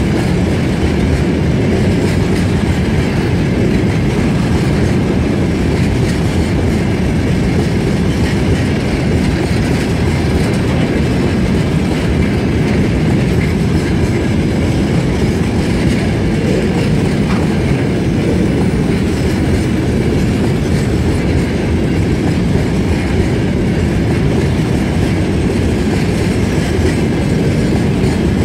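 Freight train of railway tank wagons rolling past close by, a steady rumble of steel wheels on the rails.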